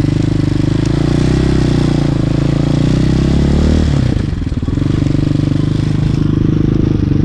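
Hawk 250 dirt bike's single-cylinder four-stroke engine running under way at low speed. Its note climbs a little, dips briefly about four seconds in, then holds steady again.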